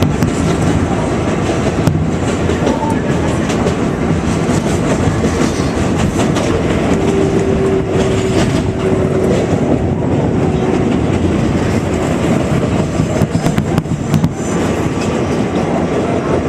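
New York City Subway 7 train running express, heard from aboard: a steady rumble of wheels and motors with clicks over the rail joints. A thin steady tone sounds for about five seconds midway.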